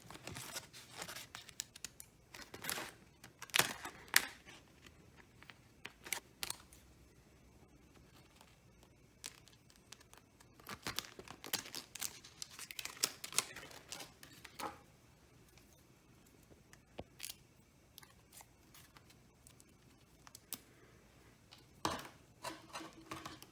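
Scissors cutting out a template, in irregular runs of short snips and rustling with quiet pauses between them.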